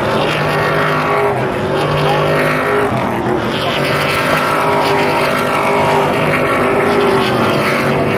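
Several Stadium Super Trucks' V8 engines racing, their pitch rising and falling as they rev and shift through the course.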